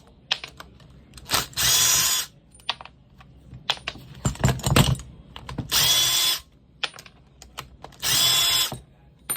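Cordless drill-driver run in three short bursts of about half a second each, a motor whine, likely backing screws out of a pneumatic siding nailer's housing. Between the bursts there are small clicks and a few clunks of the tool and parts being handled.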